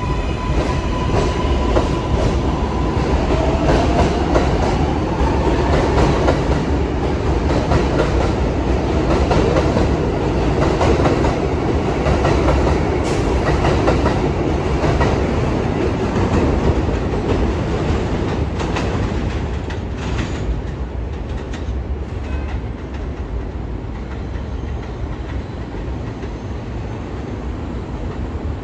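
R142/R142A subway train running between stations, heard from inside the car: a steady rumble with clicking from the wheels over the rails, and a motor whine that rises in pitch a few seconds in as the train picks up speed. The running noise eases off somewhat in the last third.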